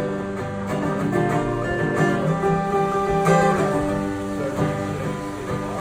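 Solo guitar strumming the opening chords of a song, before any singing comes in.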